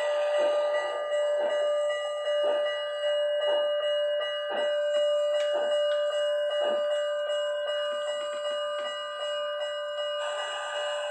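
HO scale model steam locomotive's sound decoder playing a bell ringing steadily over slow, repeated exhaust chuffs about a second apart.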